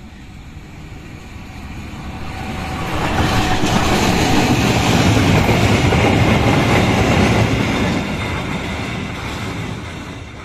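CC 206 diesel-electric locomotive hauling two ballast hopper wagons passing by, its engine and wheels on the rails. It grows louder over the first three seconds, stays loud for about five seconds as it goes past, then fades.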